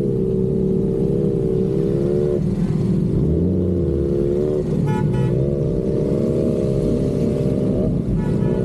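Motorcycle engine running under way, its note dropping and rising with the throttle, over low wind and road noise. Two short higher tones sound over it, about five and eight seconds in.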